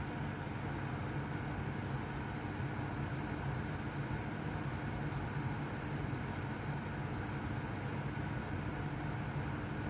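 Tansu no Gen QL11 portable spot air conditioner running: a steady low compressor hum under the even rush of its fan.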